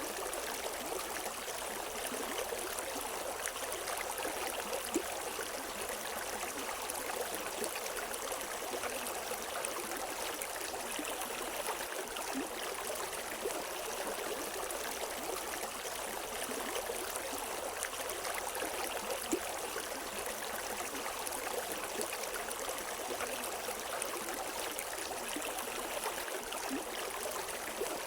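River water running over rocks: a steady rush with small splashes and gurgles through it.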